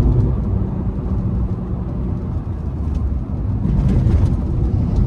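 In-cabin sound of a Volkswagen Vento's 1.5 TDI diesel engine pulling during an overtake, over a steady road and tyre rumble, with a louder swell about four seconds in.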